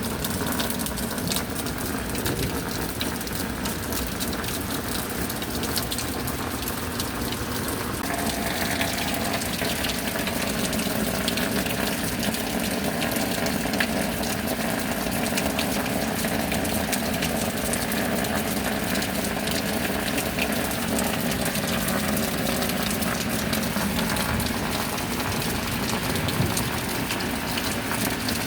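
Steady rain: a constant rushing wash of water with many small drop taps through it. The sound turns a little brighter and heavier about eight seconds in.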